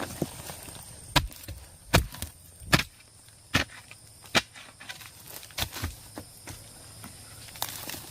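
A hand tool chopping in a series of sharp strikes, about one a second, the loudest ones in the first three seconds.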